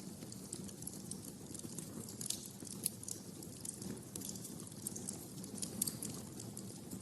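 Wood fire crackling, with irregular sharp snaps and pops over a steady low rumble of flames.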